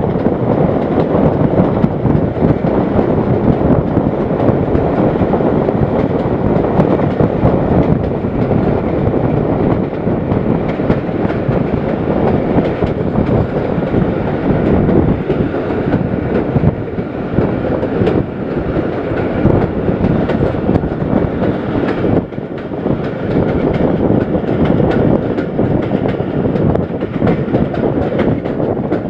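Passenger train coaches running fast over the track, heard from an open window of the moving train: a loud, steady rumble of wheels on rails with many small knocks, and rushing air.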